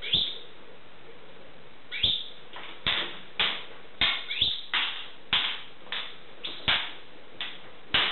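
Jackdaw and magpie giving short, harsh calls at each other: one at the start, then about a dozen in a quick irregular run from about two seconds in, some sliding down in pitch.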